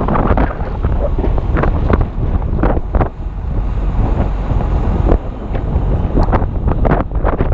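Strong gusty wind buffeting the microphone of a GoPro Hero 2, a loud continuous rumble, with scattered clicks and knocks throughout.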